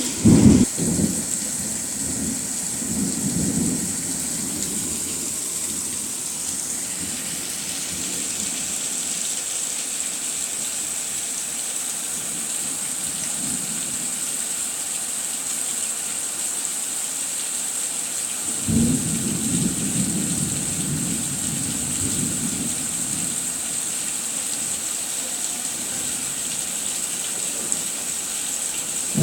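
Heavy rain falling steadily in a storm, with low rumbles swelling at the start, about three seconds in, and again around two-thirds of the way through.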